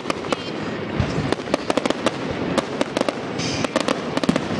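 Fireworks display going off: a rapid string of sharp crackling bangs, with a deeper boom about a second in and a short hissing crackle a little past the middle.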